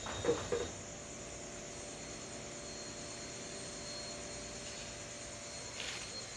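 Steady high-pitched chirring of night insects such as crickets, over a low steady hum. A brief knock or clink comes about half a second in.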